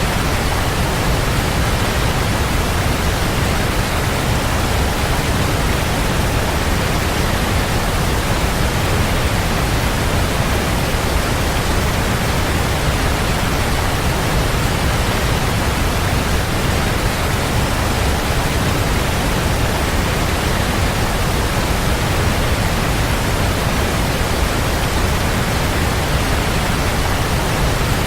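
Waterfall: a steady, unbroken rush of falling water, deep and even throughout.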